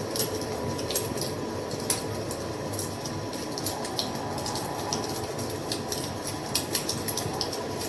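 Wood fire crackling: irregular sharp pops and snaps over a steady rushing noise.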